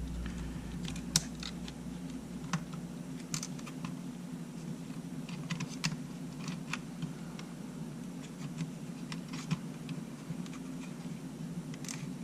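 Scattered light clicks and taps of small camera parts being handled as the Sony A7's body frame is lifted and worked free by hand, over a steady low hum.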